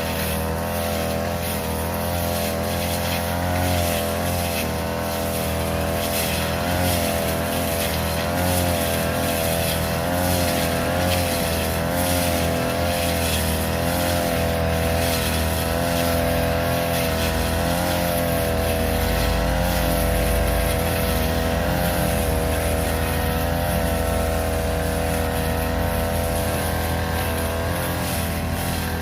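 Small brush cutter engine running at high speed while cutting grass, its pitch wavering slightly up and down as the load changes.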